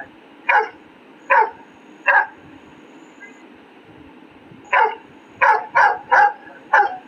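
Dog barking: three barks about a second apart, a pause of a couple of seconds, then a quicker run of five barks.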